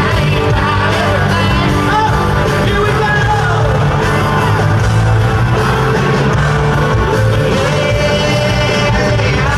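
Live band playing loudly with a singer's voice carried over it, the sung notes sliding and held.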